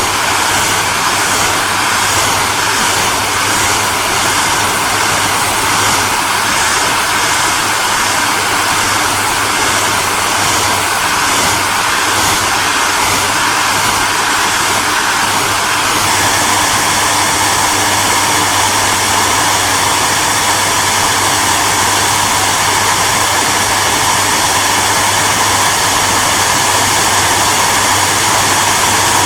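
Hair dryer running steadily: a constant noise of blowing air over a low hum. Its tone shifts slightly about halfway through.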